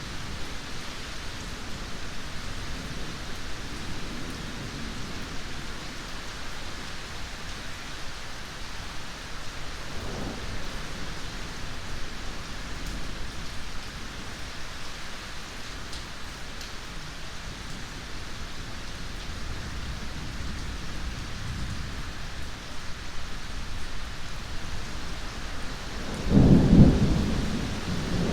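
Steady heavy rain hissing, with thunder rumbling low underneath and one loud thunderclap rolling in near the end.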